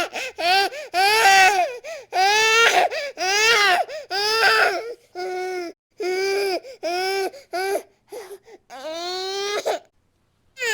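A baby crying hard, about ten short high-pitched cries in a row with quick breaths between them, falling silent for a moment near the end.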